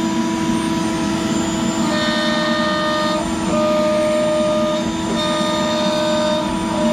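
CNC router spindle running steadily as a 45° V-bit carves a PVC sheet, a steady whine, with a second, higher whine starting and stopping in stretches of about a second as the machine moves.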